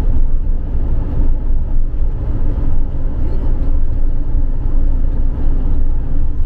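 A campervan driving along a road: steady engine and road rumble.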